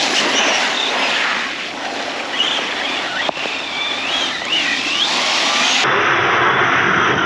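Arrma Big Rock 6S RC truck's brushless motor whining, its pitch rising and falling with the throttle, over a steady hiss of wet-ground and water noise.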